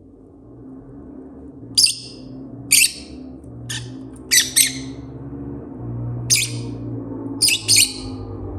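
Rosy-faced lovebird giving about eight short, high-pitched chirps, some in quick pairs, spaced about a second apart.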